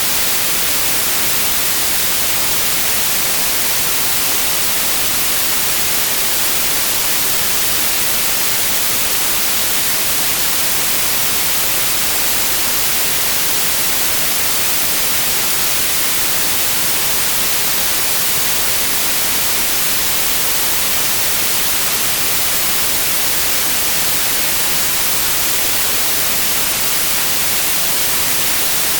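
Synthetic white noise: a steady, even hiss at constant loudness, with no pitch or rhythm.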